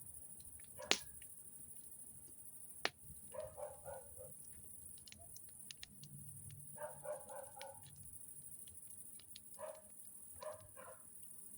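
A dog barking faintly in three short runs of barks, over a steady high hiss. Two sharp pops, typical of a crackling campfire, come in the first three seconds.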